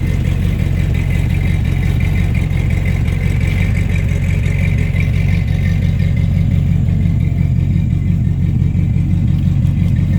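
Carbureted Chevy 350 small-block V8 idling steadily, with a barely noticeable lope from its mild RV-type cam.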